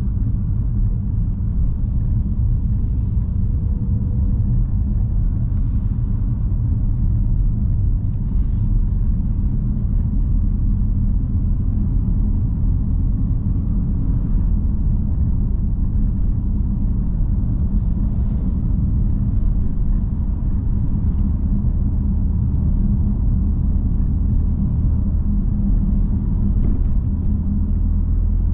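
BMW M3 F80's 3.0-litre twin-turbo inline-six running at a steady cruise, a low even rumble of engine and road noise with no sharp revving.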